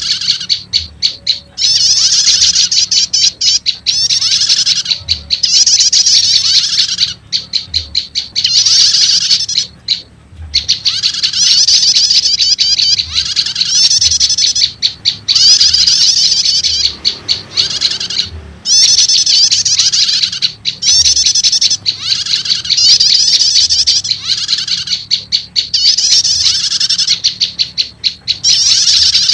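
Bird-lure recording of prenjak lumut (a small Indonesian prinia-type warbler) calls, mixed with a 'starter' prenjak call: loud, high-pitched, fast chattering trills in phrases of a second or two, separated by short gaps of rapid ticking, repeating over and over.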